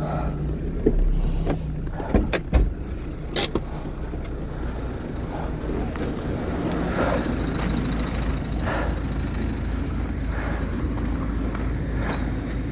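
Motor vehicle running with a steady low rumble. A few sharp knocks and clunks come in the first few seconds.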